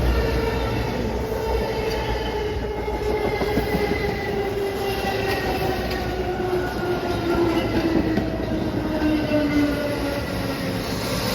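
Train running past, with a whine that slowly falls in pitch throughout.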